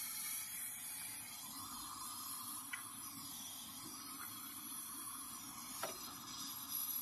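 Brazing torch flame hissing steadily while a refrigerator compressor's copper-to-steel high-pressure line joint is brazed with rod and flux, with a few faint ticks.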